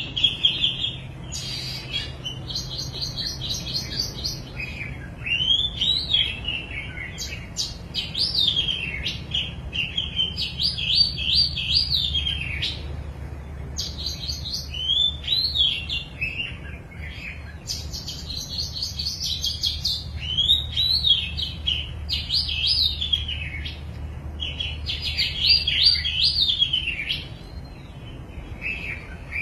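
Baby bird chirping in repeated runs of high, quick chirps that rise and fall in pitch, coming back every few seconds.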